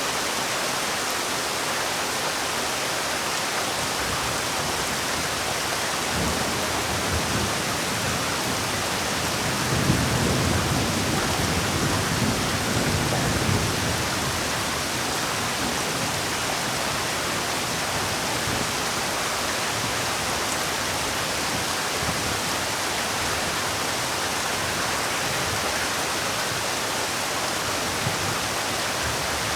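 Steady rainfall hiss. A low rumble builds about six seconds in, is loudest for a few seconds around the middle, then fades back under the rain.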